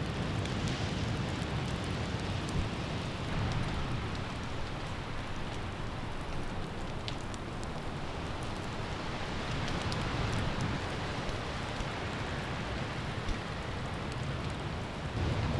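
Steady rain falling, with scattered drop ticks and a heavy low rumble of wind buffeting the microphone.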